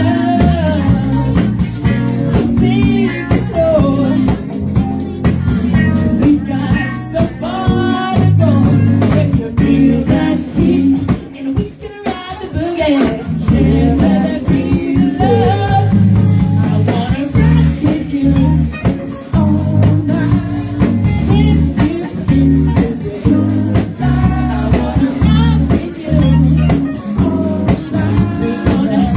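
Live blues-rock band playing, with a singer's voice over electric guitar, bass and drum kit.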